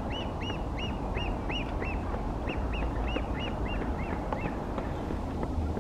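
A bird calling a rapid series of short, arched notes, about three or four a second, with a brief break about two seconds in. The series trails off about four and a half seconds in, over a steady low background rumble.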